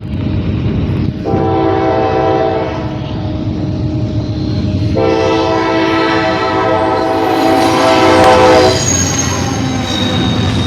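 Norfolk Southern locomotive horn sounding two chord blasts, a short one about a second in and a longer one from about the middle, over the steady rumble of the passing train. A thin high squeal comes in near the end.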